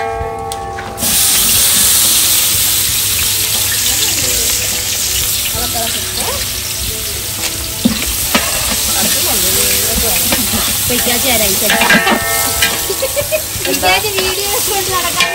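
Hot oil in a large cooking pot over a wood fire sizzling hard, starting suddenly about a second in as ingredients go into it, with stirring and scraping in the pot.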